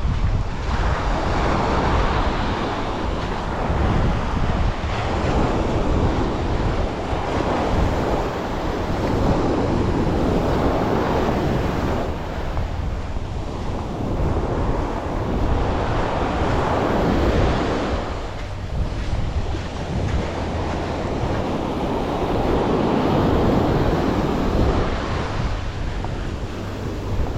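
Sea waves washing onto a beach in slow surges that rise and fall every several seconds, with wind rumbling on the microphone.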